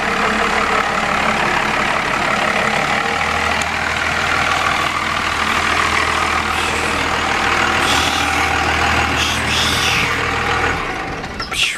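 Truck engine running steadily. Its low note changes about three seconds in, and the sound falls away near the end.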